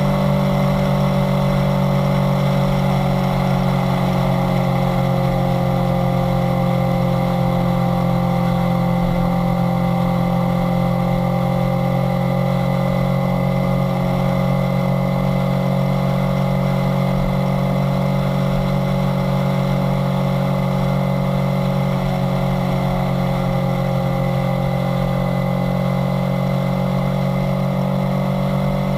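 Kawasaki Z900's inline-four engine running at a near-constant speed. Its note sags slightly through the middle and rises a little again near the end.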